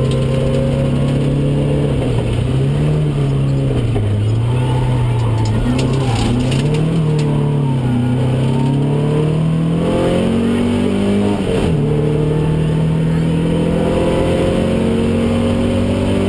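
Opel Ascona i2000 rally car's four-cylinder engine heard from inside the cabin, its pitch rising and falling as the driver goes on and off the throttle through bends. About two-thirds of the way in, the engine climbs to a peak and drops sharply at a gear change, then pulls steadily higher.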